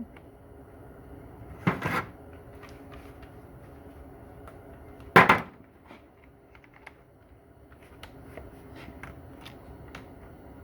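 Hand tools and metal parts handled during transmission teardown: two loud clunks about three and a half seconds apart, the second the louder, with light clicks and taps between.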